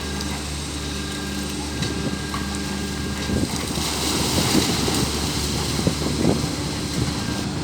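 Engine running steadily, joined from about two seconds in by irregular rattling and crackling and wind noise on the microphone.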